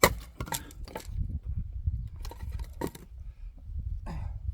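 Axe splitting firewood: one hard strike at the start, then several knocks and clattering of wood pieces, over a steady low rumble.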